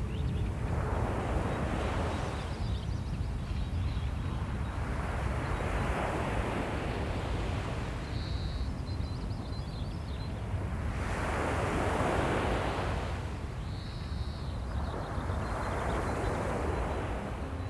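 Small waves washing up on a beach, one every four to six seconds, each swelling up and falling away, over a steady low rumble of surf and wind.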